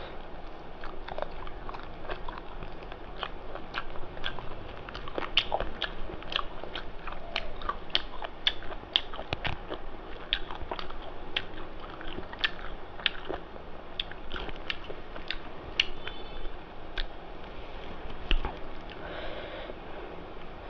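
Close-miked chewing and lip-smacking of a mouthful of rice and spicy mutton curry: irregular wet mouth clicks several times a second.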